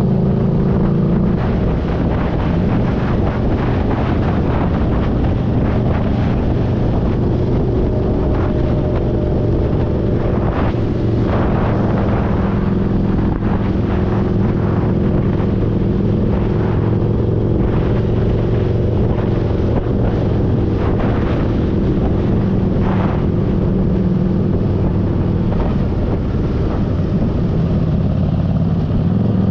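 Motorcycle engine running while riding, its note mostly steady with small shifts in pitch, with wind noise on the microphone.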